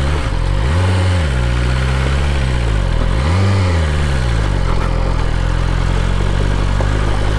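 BMW S1000RR inline-four engine running at low revs while riding with an engine-control fault. The revs rise and fall briefly twice, about one and three and a half seconds in, then hold steady.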